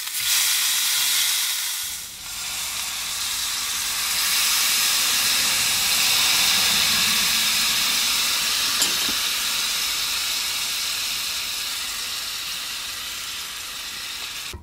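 Beef and peas sizzling and frying in a skillet on a portable gas stove. The sizzle is steady, grows louder and fuller a few seconds in, then eases slightly toward the end.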